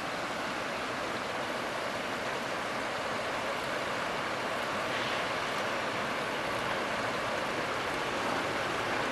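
A distant train approaching, heard as a steady rushing noise that slowly grows louder.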